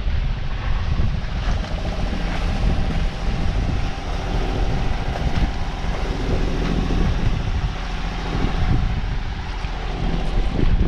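Sailboat's inboard engine running steadily while motoring under way, with wind buffeting the microphone in gusts over the sea noise.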